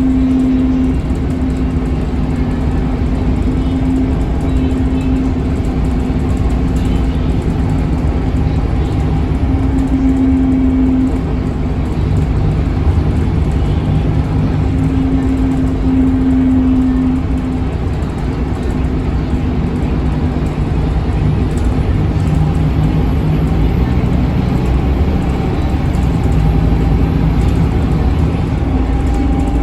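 Scania K280UB bus driving: its Scania DC9 five-cylinder diesel running over a steady rumble of road noise, with the engine note shifting in pitch and a hum that comes and goes every few seconds.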